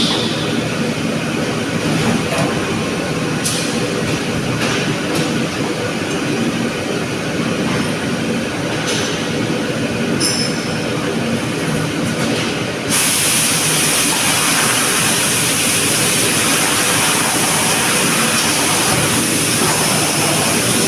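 A 500-ton die casting machine running with steady mechanical noise and a few sharp clicks. About two-thirds of the way through, a loud hiss starts suddenly and continues.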